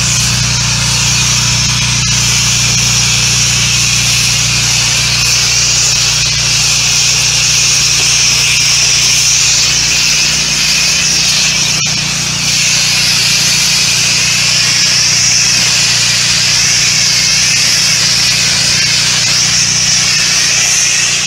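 Low-pressure spray wand hissing steadily as it applies house-wash solution to mold- and algae-covered siding, over the constant low hum of the wash rig's pump. A brief click about 12 seconds in.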